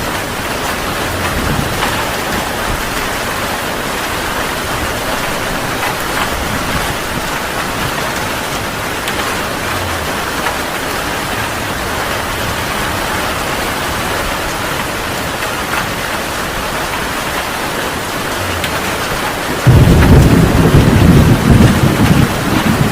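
Heavy rain falling steadily. About three seconds before the end, a sudden loud, low clap of thunder breaks in and rumbles on.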